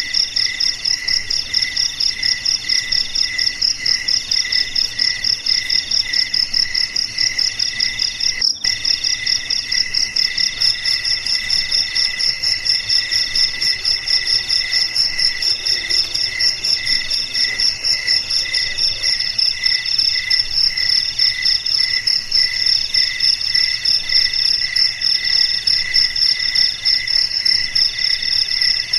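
Crickets chirping in a continuous chorus: several insects at different pitches, each a fast, even pulsing trill, one of them breaking into groups with short pauses.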